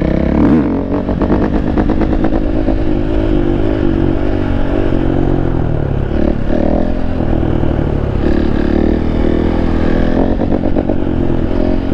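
KTM 450 four-stroke dirt bike engine running under riding, its pitch rising and falling with the throttle and gear changes.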